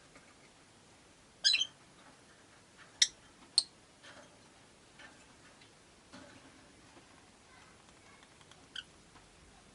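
Rosy-faced lovebirds chirping: a quick burst of sharp, high calls about a second and a half in, two single chirps half a second apart around three seconds, and a faint chirp near the end.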